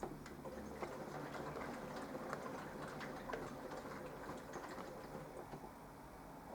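Minicolo mini washing machine: a click, then a run of light, irregular ticks and clicks over a low steady hum, thinning out toward the end.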